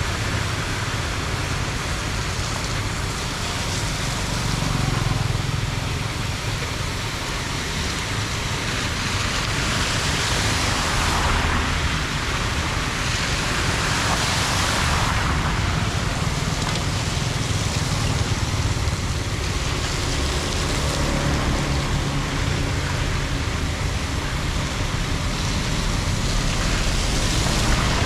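Floodwater rushing steadily into a storm drain, swelling louder for several seconds in the middle.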